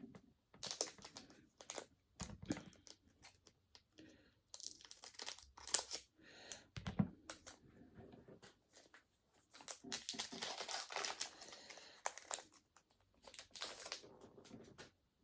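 Foil wrapper of a Pokémon booster pack being torn open and crinkled, in irregular bursts of rustling and tearing.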